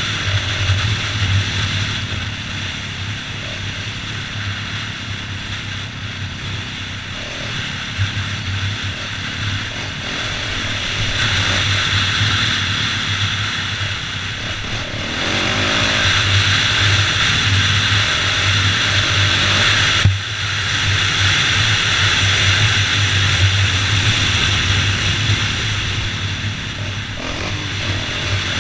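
Dirt bike engine running as it is ridden, swelling and easing in stretches of several seconds, with one sharp knock about twenty seconds in.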